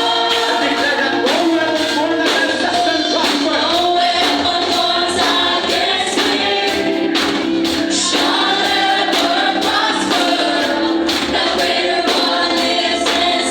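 Worship music: a group of voices singing a praise song with instrumental accompaniment and a steady percussion beat.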